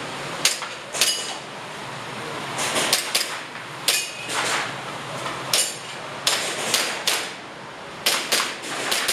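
Airsoft pistol shots fired in quick, irregular strings, about a dozen sharp cracks with short pauses between groups. A few are followed by a brief high ring.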